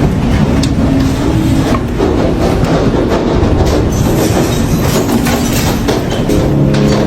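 Heavy hail coming down: a loud, dense, continuous rattle of hailstones striking hard surfaces.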